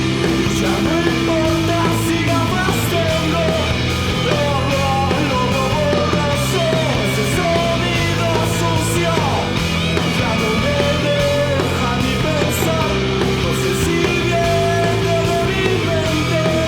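Rock song with electric guitar, bass and drums, playing steadily.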